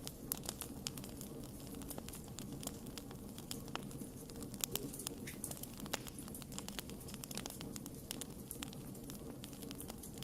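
Wood fire crackling: irregular sharp pops and snaps, several a second, over a steady low background of burning.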